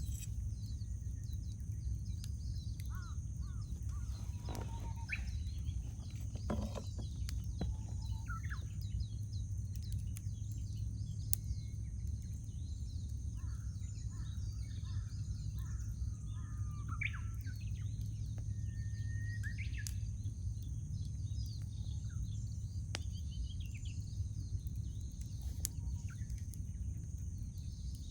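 Wood campfire with a steady low rumble and a few sharp crackling pops, under birdsong: many short chirps and calls from several birds throughout.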